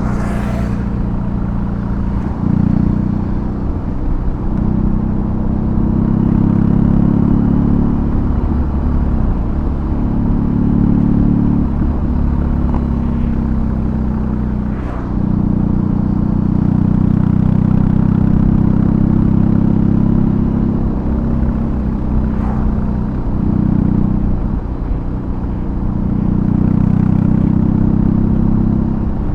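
BMW R18's big boxer twin running through a custom exhaust while riding: a deep, low rumble that swells and eases five or six times as the throttle opens and closes.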